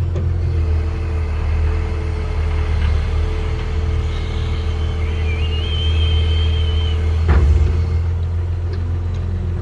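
Excavator engine running steadily with a low rumble, a high whine rising in pitch partway through and a single sharp knock near the end.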